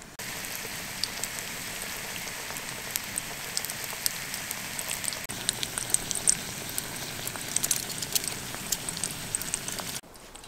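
Patties sizzling and crackling in fat in a stainless steel bowl over a gas cartridge stove: a steady hiss dotted with small pops. The sizzling drops to a much fainter level just before the end.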